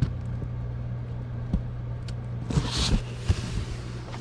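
A few light knocks and a brief rustle from handling items, over a steady low hum.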